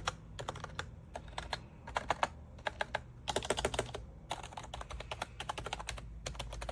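Typing on an Aula S99 mechanical keyboard: quick runs of sharp key clacks with short pauses, the densest flurry about halfway through.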